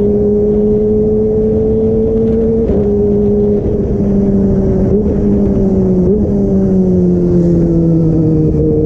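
Kawasaki ZX-25R's 249 cc inline-four engine running under way at a steady high note. A few brief dips in pitch come through, and the note eases slightly lower near the end.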